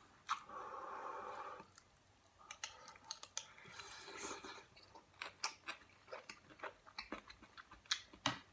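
Close-miked eating sounds of kimchi stew: a slurp lasting about a second near the start, then chewing with many small wet mouth clicks.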